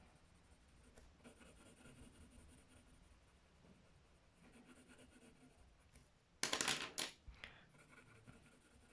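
Faint scratching of colouring strokes on paper, then a brief clatter of small hard objects about six and a half seconds in, with a smaller click just after.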